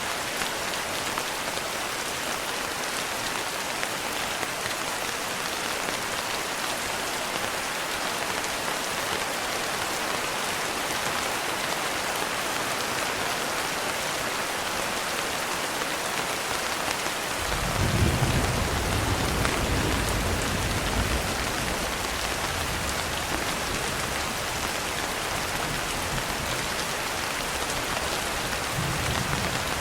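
Steady rain pattering on a window, with a low roll of thunder rumbling in about two-thirds of the way through for a few seconds and a fainter rumble near the end.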